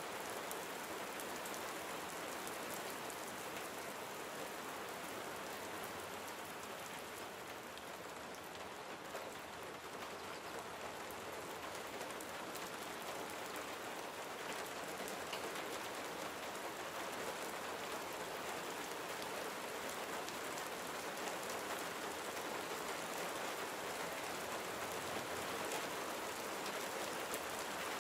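Steady gentle rain falling, with the patter of countless small drops on surfaces.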